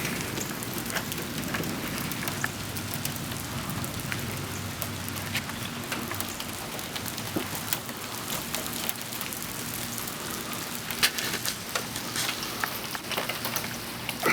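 Thunderstorm rain pouring steadily, with a dense patter of sharp drop hits close by and one louder hit about eleven seconds in.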